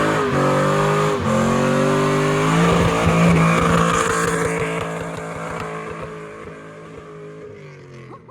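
Car engine accelerating as the car pulls away. The revs climb and drop sharply about a second in, as at a gear change, then hold steadily and fade away over the last few seconds as the car drives off.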